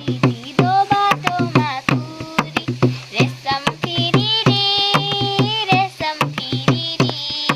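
A voice singing a Nepali folk song, with long held notes about halfway through, over quick hand-drum strokes from a madal and a steady low drone.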